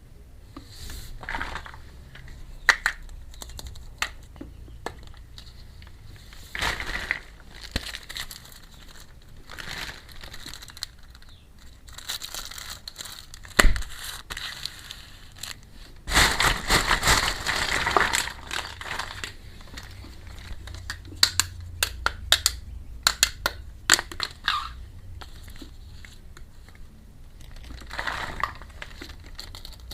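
Plastic packaging crinkling and rustling as it is handled, with scattered small sharp clicks and taps. A longer, louder stretch of crinkling comes about sixteen seconds in.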